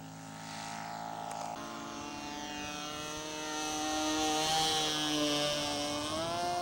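Radio-controlled scale model airplane engines running in flight, a steady propeller drone whose pitch shifts as the planes pass and rises near the end.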